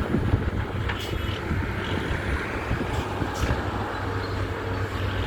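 Heavy diesel earthmoving machinery running with a steady low rumble, with a couple of faint knocks.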